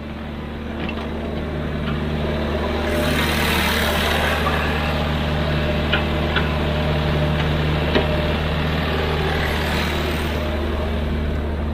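Excavator's diesel engine running at a steady, even drone. A rushing hiss swells in the middle for several seconds, and a few sharp knocks sound about six and eight seconds in.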